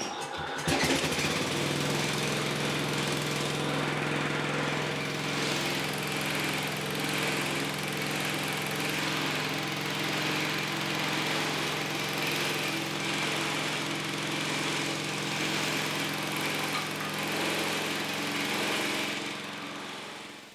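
A motor-driven power tool spins up about a second in and runs steadily, a constant hum with a hiss over it, then winds down near the end.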